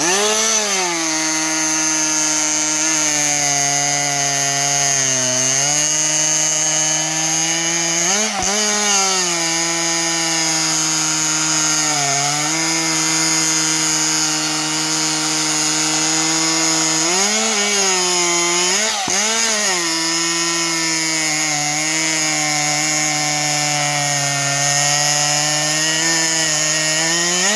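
Stihl MS261C two-stroke chainsaw, fitted with a CPI racing expansion-chamber exhaust, cutting wood at full throttle. The engine holds a steady high pitch, with brief rises and dips a few times, around 8 seconds in and again around 17 to 20 seconds, and the revs fall away at the very end.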